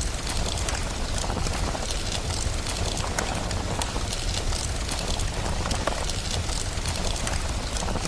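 Steady rain hiss mixed with a crackling wood fire: a constant even noise with irregular sharp pops and snaps scattered through it.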